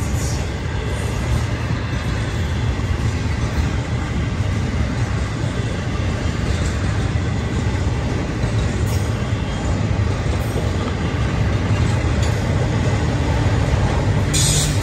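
Florida East Coast intermodal freight train's flatcars, loaded with semi-trailers, rolling past close by: a steady, heavy rumble of steel wheels on rail. Near the end there is a brief, sharp high-pitched noise.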